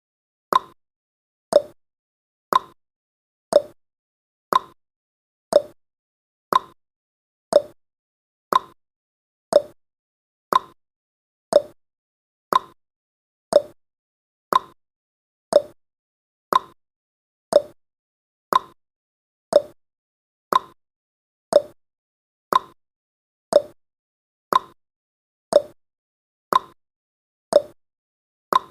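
Countdown timer's clock-tick sound effect: short, sharp ticks about one a second, alternating between a higher and a lower click like a tick-tock.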